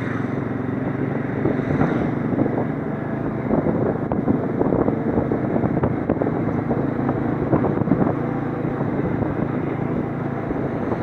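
Motorcycle engine running steadily while riding, heard from on the bike, with rushing wind and road noise.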